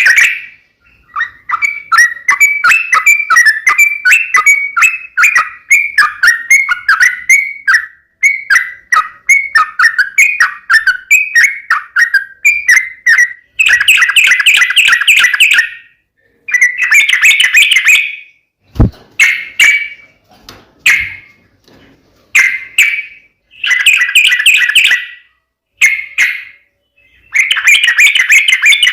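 Yellow-vented bulbul (trucukan) calling loudly in rapid, bubbly chattering phrases, first a running series of quick notes and then repeated bursts of a second or two with short gaps between them. A single sharp click about two-thirds of the way through.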